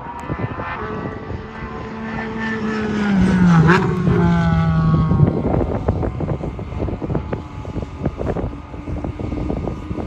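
Race car passing at speed on a track: a steady high engine note that grows louder, drops sharply in pitch as the car goes by about four seconds in, then fades away.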